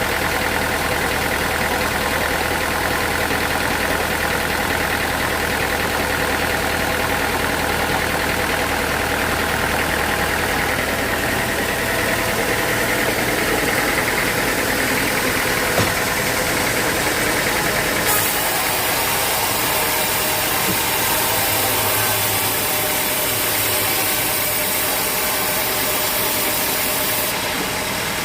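Sawmill machinery running steadily, a motor's hum under a hiss that grows louder about two-thirds of the way through and drops back near the end, with a single knock a little past halfway.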